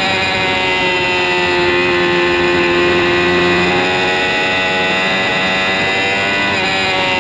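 2006 Kawasaki ZX-6R 636's inline-four engine running at high revs under way on a racetrack, its note sagging slowly in pitch, with a brief break in the note near the end.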